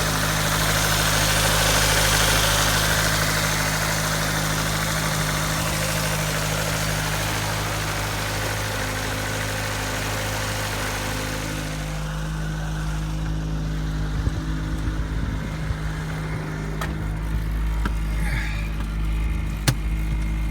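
Ford Focus SVT's 2.0-litre four-cylinder engine idling steadily and smoothly. A broad hiss over it drops away about twelve seconds in, and a couple of sharp clicks come near the end.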